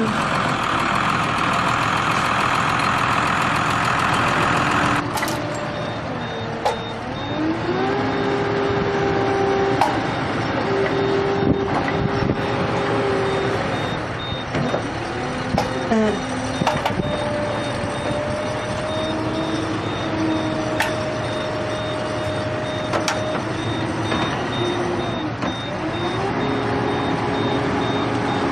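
Heavy vehicle's diesel engine running under load, its pitch rising and falling several times as it revs up and down, with a reversing alarm beeping steadily from about five seconds in.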